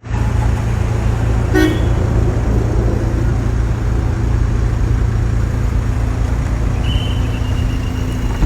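Road vehicle engine running with a steady low rumble, a short horn toot about one and a half seconds in, and a thin high horn tone held for about a second and a half near the end.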